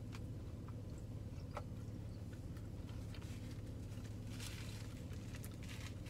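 Faint closed-mouth chewing of a fried chicken sandwich: soft, scattered wet mouth clicks, with a brief rustle about four and a half seconds in, over a steady low hum.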